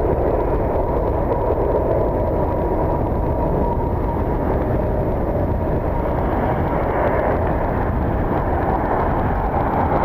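Steady rumble of distant jet aircraft engine noise and wind on the microphone, with a faint high whine through the first half.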